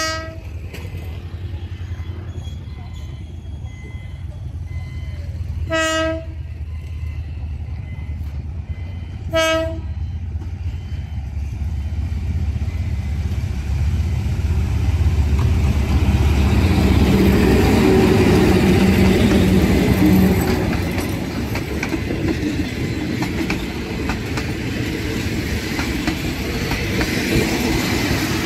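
Diesel-hauled passenger train giving two short horn blasts, then approaching and passing over a level crossing. The locomotive's engine rumble builds and peaks about two-thirds of the way in, then gives way to the carriages' wheels clacking steadily over the rails.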